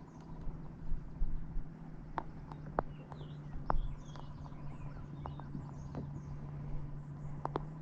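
Scattered light clicks and knocks of fishing gear against a plastic kayak hull over a steady low hum, with faint bird chirps in the middle.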